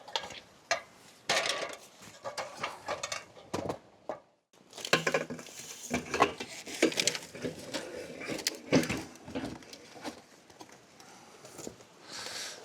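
Irregular knocking, clattering and scraping, with a brief gap of quiet a little over four seconds in.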